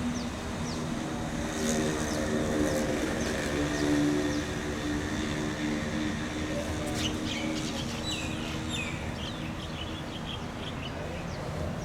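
A motor's steady hum swells and then fades, with birds chirping in the second half.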